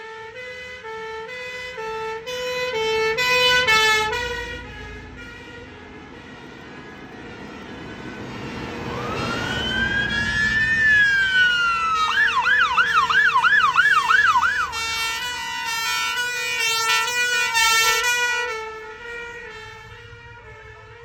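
Fire engine sirens passing one after another: a two-tone hi-lo siren alternating steadily, swelling to a peak about four seconds in. Around nine seconds a wail siren rises and falls, then switches to a fast yelp for a few seconds, while two-tone sirens carry on; it all fades near the end.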